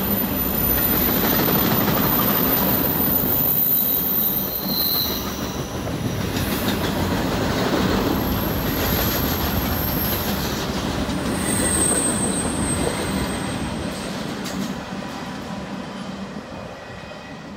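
Empty intermodal container train of well cars rolling past close by: a steady rumble and rattle of wheels on rail, with high-pitched wheel squeal coming and going as the cars take the curve. The sound fades over the last few seconds.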